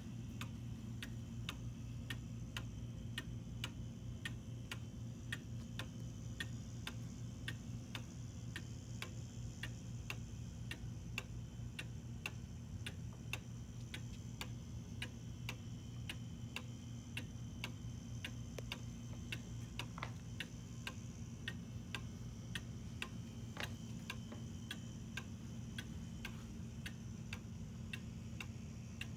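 Antique Black Forest cuckoo clock ticking steadily, its pendulum movement making even, regular ticks, a few a second, over a steady low hum.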